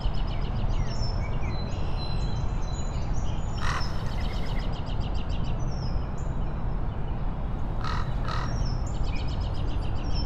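Birds chirping in rapid trills and short calls over a steady background hiss with a low rumble. A brief hiss cuts across near four seconds in and again near eight seconds.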